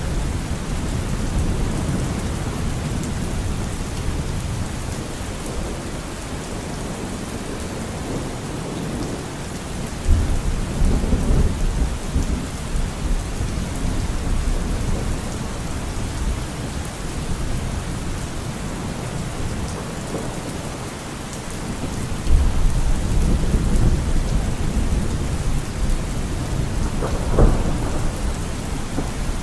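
Steady rain falling, with thunder rumbling low twice, about a third of the way in and again about three quarters through, and a sharper thunderclap near the end.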